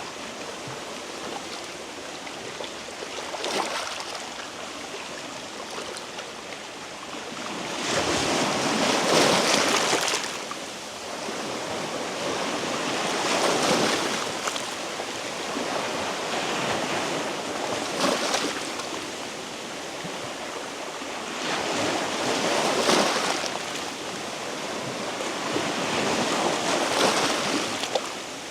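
Small sea waves washing in over shoreline rocks, the surf swelling and easing about every four to five seconds.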